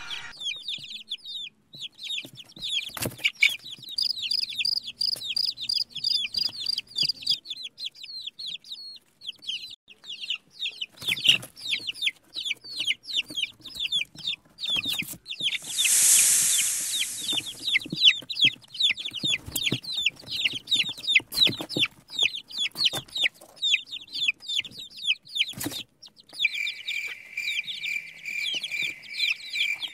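Baby chicks peeping continuously in many quick, high chirps. A loud hissing whoosh lasts about two seconds around the middle, and there are a few sharp clicks. Near the end the peeping turns to a more even, regular run.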